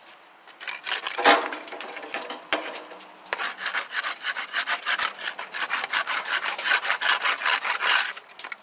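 A wire grill brush scraping a grill's fire dampers, rasping back and forth. One hard stroke comes about a second in, then a fast run of steady strokes from about three seconds in until near the end.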